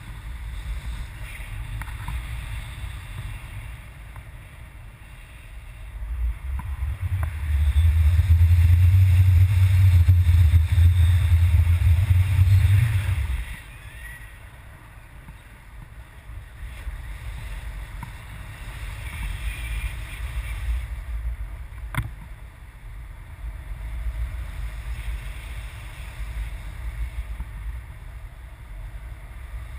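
Wind buffeting the microphone as a low rumble, with one strong gust from about six to thirteen seconds in. A single sharp click about twenty-two seconds in.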